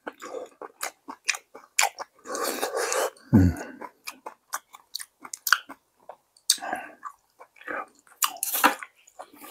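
Close-miked chewing and biting of green onion kimchi and sujebi: many wet mouth clicks and smacks, with a couple of longer, noisier stretches of chewing.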